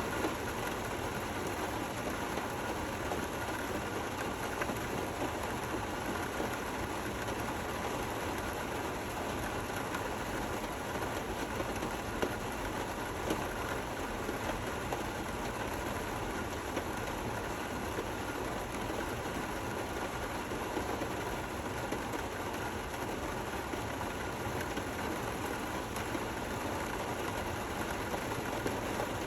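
Steady rain falling: an even hiss with scattered louder drop ticks.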